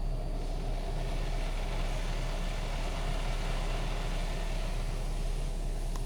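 Belanger Vector automatic car wash spraying Clean Shield protectant over the car, heard from inside the cabin as a steady hiss that builds about half a second in, over a constant low hum.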